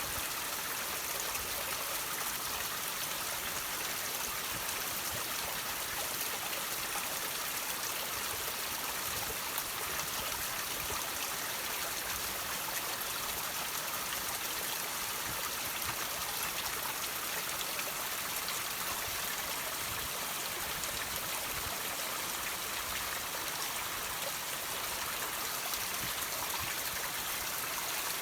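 Water trickling and dripping from rocks, a steady splashing rush with most of its sound in the upper range and no change in level.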